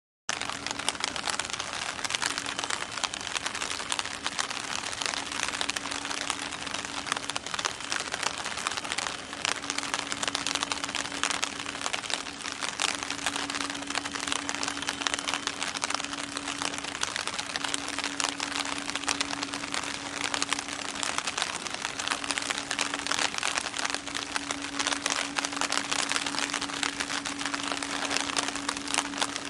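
Steady rain pattering close to the microphone, a dense crackle of small drops, with a faint steady hum underneath.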